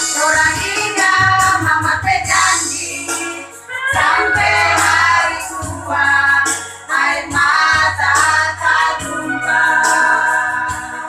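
Women's choir singing held, phrased notes in unison over instrumental accompaniment with a steady low bass line, pausing briefly between phrases.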